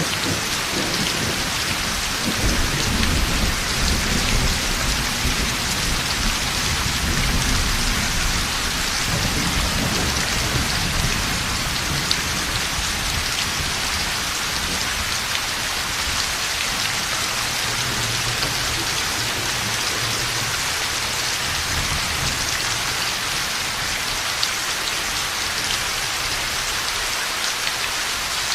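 Heavy rain falling steadily with low rolls of thunder, strongest over the first third and again briefly past the middle, fading out near the end.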